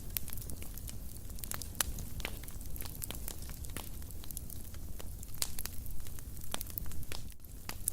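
Wood fire burning in a fireplace: irregular sharp crackles and pops over a low steady rumble of flame.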